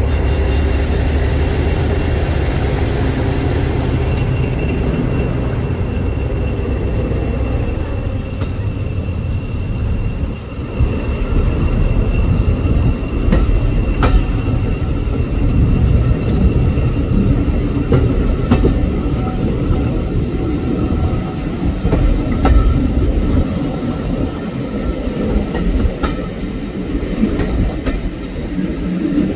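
A diesel locomotive running as it passes close by, with a steady low engine hum. It is followed by passenger coaches rolling past, their wheels clicking over the rail joints at irregular intervals, with some wheel squeal.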